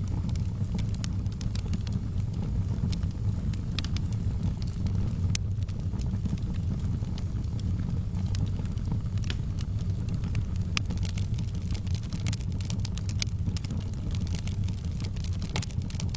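Wood fire in a fireplace crackling, with irregular sharp pops and snaps that come more often in the last few seconds, over a steady low rumble.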